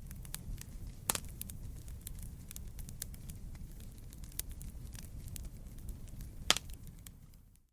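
Wood campfire crackling: a steady low rumble of burning with scattered sharp snaps, and two louder pops, one about a second in and one near the end.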